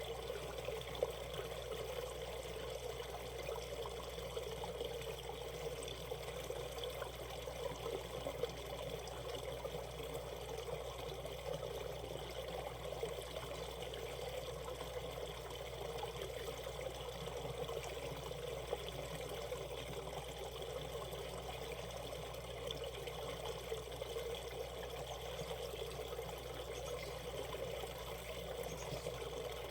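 Shallow valley stream flowing over rocks, a steady babbling rush of water.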